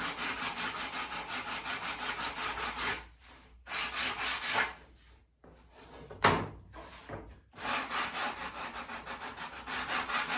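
Hand saw cutting through a small wooden strip with quick, even back-and-forth strokes. The strokes stop twice for a moment in the middle, with short bursts in between, then carry on steadily.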